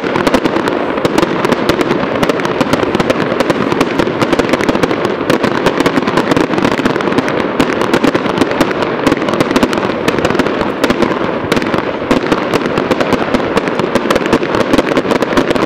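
Fireworks crackling: a continuous, dense rapid-fire barrage of sharp cracks and pops with no break.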